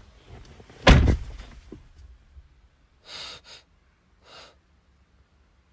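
A door slammed shut hard about a second in, a single heavy thud, followed later by two short breathy sounds.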